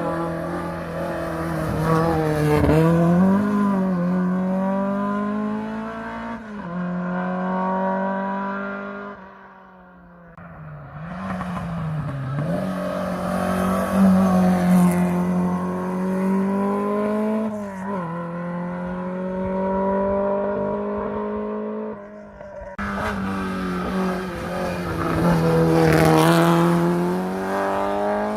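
Ford Escort race cars driven flat out up a hill climb, engines revving hard, the pitch climbing and dropping back at each gear change. One car fades away about ten seconds in before the next comes up, and the sound switches abruptly to another car about two-thirds of the way through.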